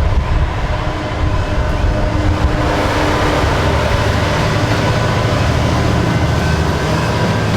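Diesel-hauled train passing close by: a heavy low engine drone under wheel-on-rail noise that thickens about three seconds in.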